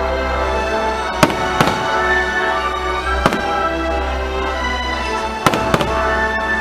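Fireworks shells bursting over loud music: five sharp bangs, two close together about a second in, one near the middle and another pair close together near the end.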